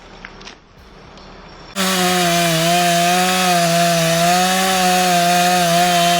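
Chainsaw running at full throttle, starting abruptly about two seconds in as a loud, steady whine whose pitch wavers slightly; before that, only faint background.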